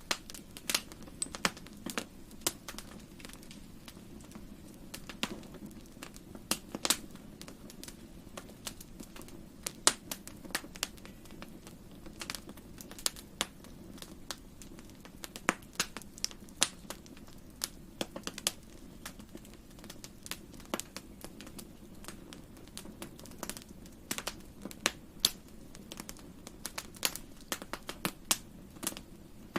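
Wood fire crackling in a fireplace: irregular sharp snaps and pops, several a second and uneven in loudness, over a soft, steady low rumble.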